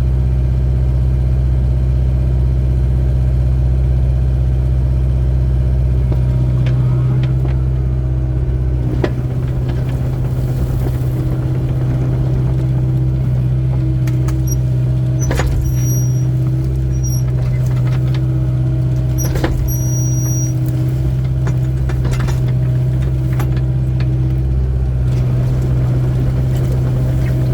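Excavator's diesel engine running steadily under digging work, with a few sharp knocks and clanks through the middle.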